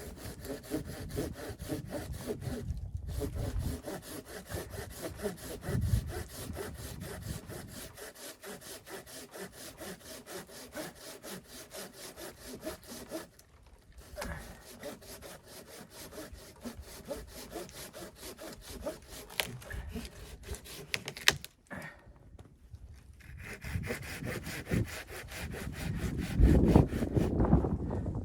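Hand saw cutting through wood in steady back-and-forth strokes, stopping briefly a few times.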